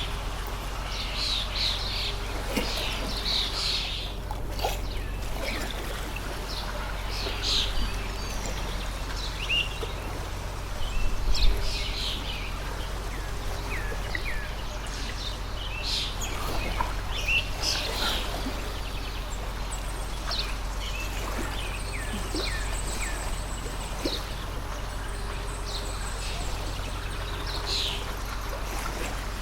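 Stream water flowing steadily, with many birds chirping and calling throughout in short, scattered notes. A brief low thump stands out about eleven seconds in.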